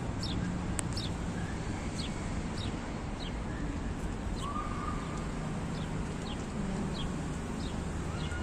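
A bird repeating a short, high, falling chirp every half second or so, over steady outdoor background noise.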